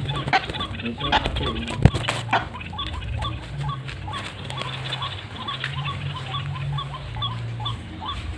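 Truwok bird calls: short chirping notes repeated about two or three times a second, over a low steady hum, with scattered sharp clicks and knocks, one sharp one about two seconds in.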